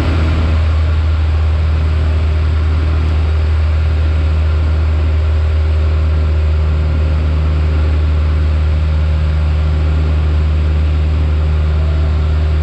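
Piper Warrior's four-cylinder Lycoming engine and propeller droning steadily in cruise, heard from inside the cockpit as a loud, even low hum with a constant rush of noise over it.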